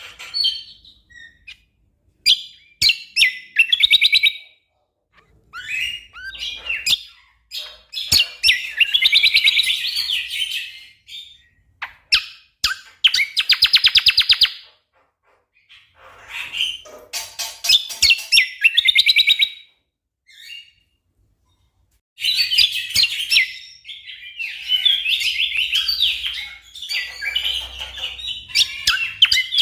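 Cucak kombo songbird singing loud phrases of chirps and whistles, with bursts of fast, tightly repeated notes, broken by short pauses.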